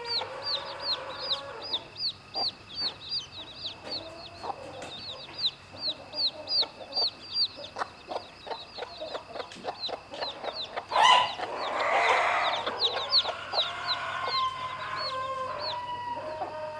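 Chicks peeping continuously, a rapid run of short, high, falling peeps, over a mother hen's low clucking. About eleven seconds in there is a sharp knock, followed by a brief noisy scuffle.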